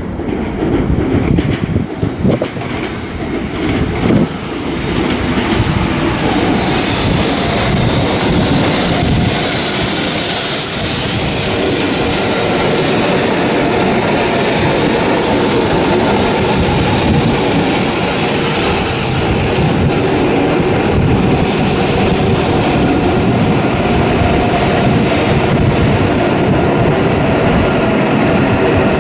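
Shinkansen train running alongside a station platform: a loud, steady rush of wheels and running gear that builds over the first few seconds and then holds, with a high hiss through the middle.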